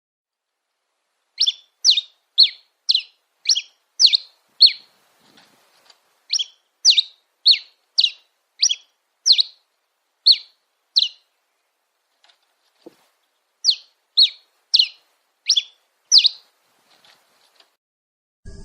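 A songbird giving three runs of sharp, downward-slurred chirps, about two a second: seven notes, then eight, then five, with pauses between the runs.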